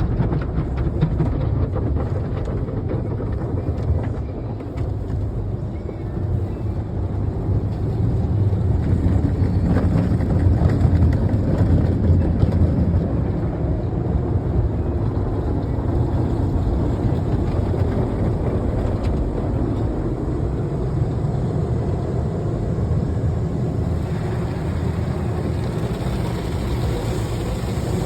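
Steady low rumble of a car wash running, getting a little louder for a few seconds near the middle.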